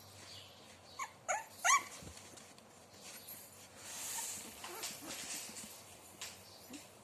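Puppies whimpering: three short, high yelping cries in quick succession about a second in, then a brief rustle and a few fainter whimpers.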